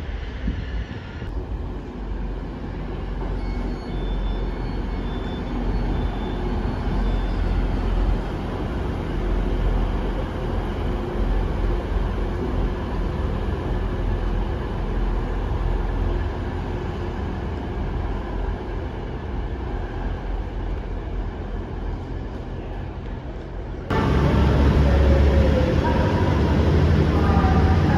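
A train at a station platform running with a steady low rumble. About twenty-four seconds in it changes abruptly to a louder, deeper engine sound.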